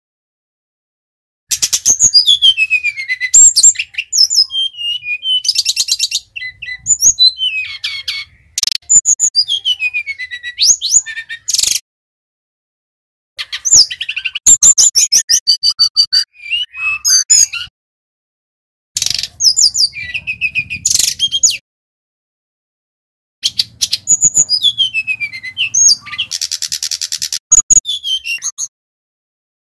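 Sikatan rimba dada coklat (brown-chested jungle flycatcher) singing loud phrases of rapid chirps and falling whistles, in several bouts broken by short silent pauses.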